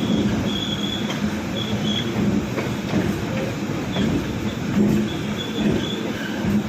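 Suburban EMU local train running on the rails: a steady rumble with occasional wheel-on-rail knocks and short, thin, high-pitched wheel squeals that come and go.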